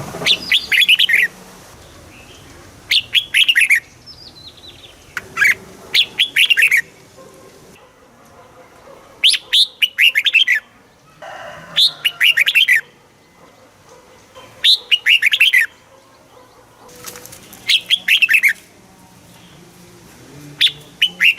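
Red-whiskered bulbul singing: short, quick phrases of chirpy, falling notes, each about a second long, repeated every two to three seconds.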